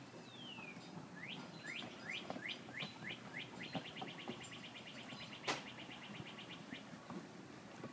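A songbird singing. One falling note comes first, then a run of rising notes that speeds up into a fast trill lasting about three seconds. Underneath, puppies scuffle on a dog bed, and there is one sharp click about five and a half seconds in.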